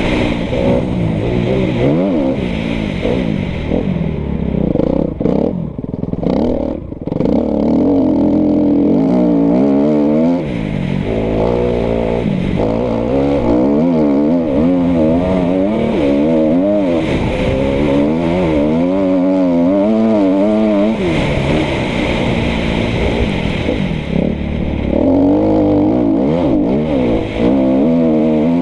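Kawasaki KX250F's four-stroke single-cylinder engine being ridden hard, its pitch climbing and dropping again and again as the throttle is opened and shut, with a short lull about five to seven seconds in.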